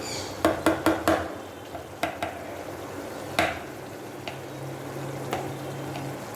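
A spatula stirring and scraping a frying pan, knocking against it several times in a quick cluster near the start and a few more times later, over a steady sizzle. The sizzle is the curry's spice base frying in oil before the chicken goes in.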